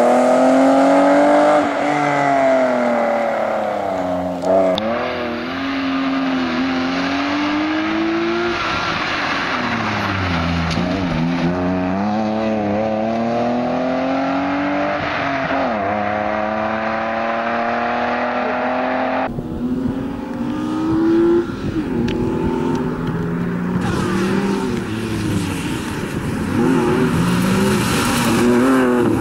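BMW 323i's straight-six engine revving hard and easing off again and again as the car slides through corners, its pitch climbing and dropping every few seconds.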